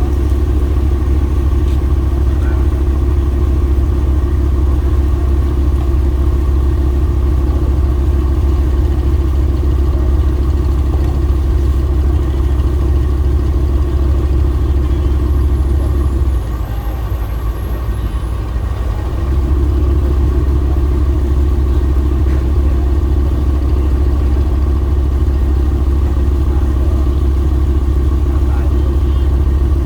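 Boat engine running steadily at close range. Its drone drops for about three seconds just past the middle, then comes back at the same level.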